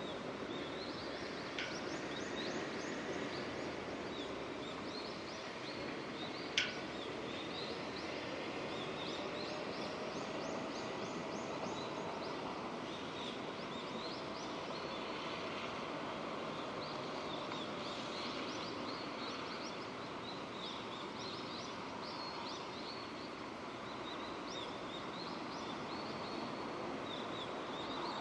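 Steady rain falling, with small birds chirping repeatedly. A single sharp tick about six and a half seconds in.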